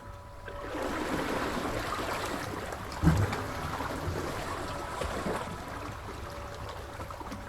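Sea waves: a wave surges in about a second in and washes back out over several seconds, with a low thump near the middle.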